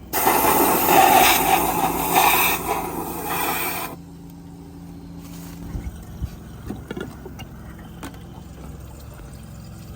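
Loud rushing spray of water and air blown out of the cylinders of a water-filled Scania diesel engine, lasting about four seconds and cutting off abruptly. Then a faint low hum with a few small knocks.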